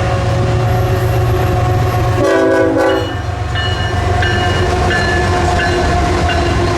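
Freight train passing with a steady low rumble, and a short locomotive air horn blast about two seconds in.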